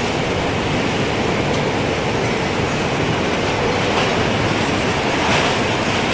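Strong wind blowing steadily, a loud even rushing noise, with a few faint high wind-chime tinkles above it.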